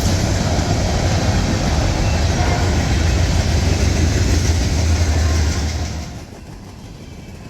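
Freight train passing close by: a loud, steady rumble of the train with a low diesel engine drone, which drops away sharply about six seconds in.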